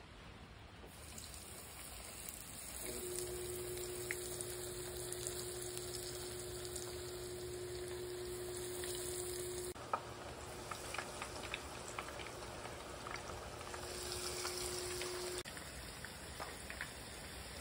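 Cornmeal-breaded shrimp deep-frying in hot oil: a steady sizzle that grows louder a couple of seconds in, with scattered pops and crackles in the second half. A steady hum sounds along with it for several seconds.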